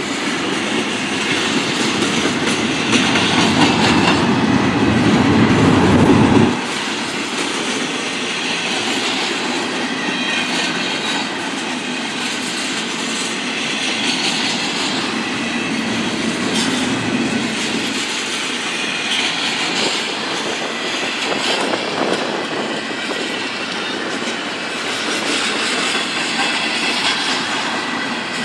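A train rolling past, its wheels clicking and rumbling over the rails with some wheel squeal. A heavier low rumble over the first six seconds or so cuts off suddenly, leaving a steady rolling noise of cars going by.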